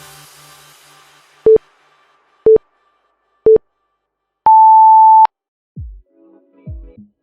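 Workout interval timer counting down: three short low beeps a second apart, then one long higher beep marking the switch to the next interval. Electronic backing music fades out at the start and returns with a thumping beat near the end.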